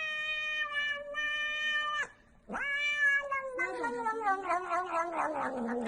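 A cat meowing: one long, steady meow of about two seconds, then after a short break a second long call that slides slowly down in pitch into a lower, drawn-out yowl.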